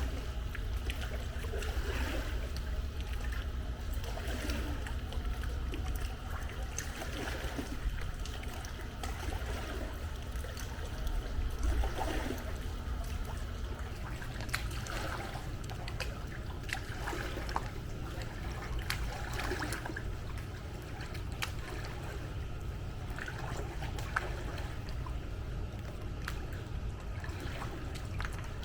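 Swimming-pool water sloshing and trickling as someone moves through it, with scattered small splashes over a steady low rumble.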